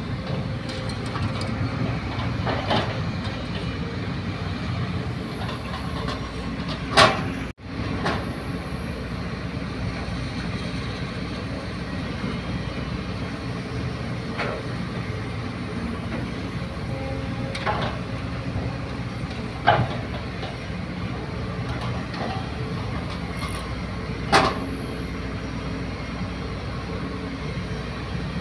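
Excavator diesel engine running steadily while it loads soil into a dump truck, with sharp clanks every few seconds. The sound cuts out for a moment about seven and a half seconds in.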